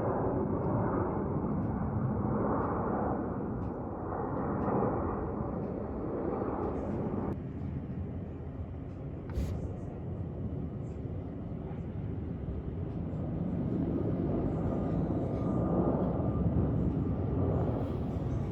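Jet airliner on landing approach: a rushing engine noise that swells and fades, changing abruptly about seven seconds in. A faint high whine comes in near the end.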